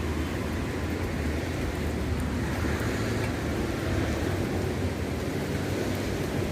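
Steady rain with a low, continuous rumble underneath.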